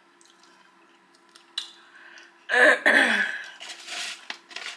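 Close-miked mouth sounds of eating a seafood egg roll: wet chewing noises, with a brief loud vocal noise about two and a half seconds in, over a faint steady hum.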